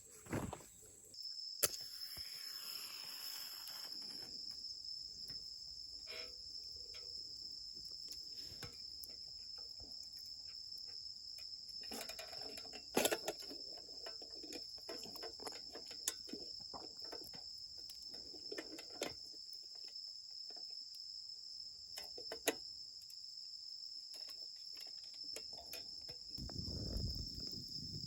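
Campfire crackling, with scattered sharp pops and snaps, over a steady high-pitched whine. Near the end a low rumble rises.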